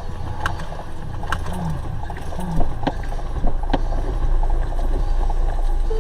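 Vehicle driving, heard through a dashcam as a steady low road and engine rumble with scattered light clicks and knocks. It cuts off abruptly at the end.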